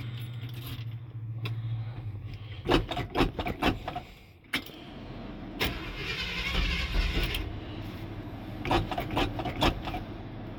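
Starter cranking an old pickup truck's engine on a cold start after it has sat for about a week; the engine turns over but does not catch. Sharp clacks come about three seconds in, then more cranking noise builds in the second half.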